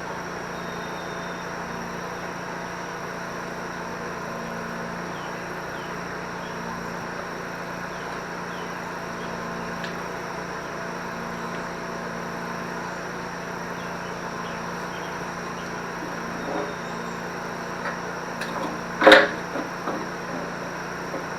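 A steady low hum with a faint hiss, broken near the end by a few light knocks and one loud sharp knock.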